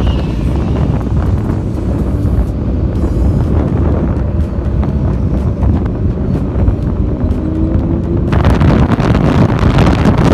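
Wind buffeting the microphone of a moving motorcycle, over a steady engine and road rumble; the noise swells louder and brighter about eight seconds in.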